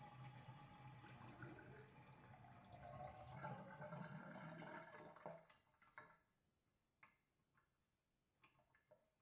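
Water draining down a sink with a gurgling flow that dies away about five seconds in, followed by a few single drips.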